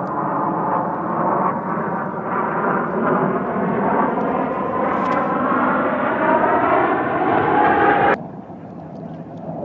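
Aircraft flying at an air show, its engine noise loud and steady with tones that slowly rise in pitch; the sound stops suddenly about eight seconds in.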